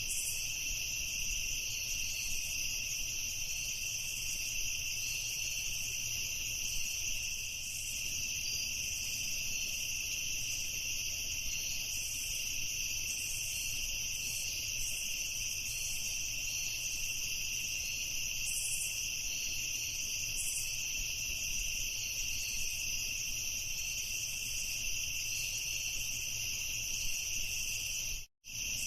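Chorus of crickets chirping, a dense steady trill with two high pitches layered together. It cuts out completely for a split second near the end.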